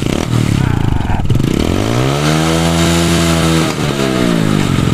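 Motorcycle engine running loudly and being revved. The pitch climbs about a second and a half in, holds steady, drops briefly near four seconds and climbs again near the end.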